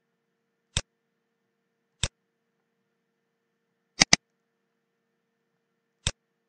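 Computer mouse button clicks: three sharp single clicks a second or two apart and a quick double click about four seconds in, over a faint steady hum.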